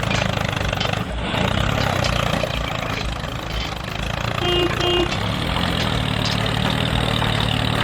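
Small tractor engine running steadily at idle, with two short beeps about halfway through.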